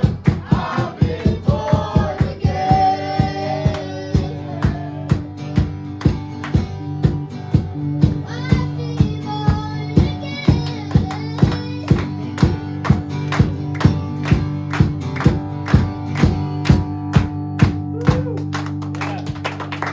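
Worship band music with a steady beat of about two drum hits a second under held chords. Singing comes in the first few seconds and again around the middle.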